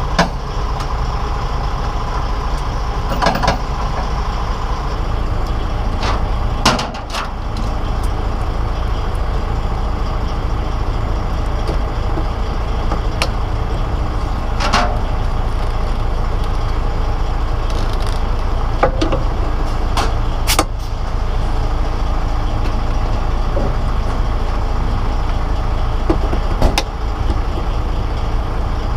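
DAF truck's diesel engine idling steadily, with a few separate knocks and clanks at irregular intervals as the trailer hook-up is finished.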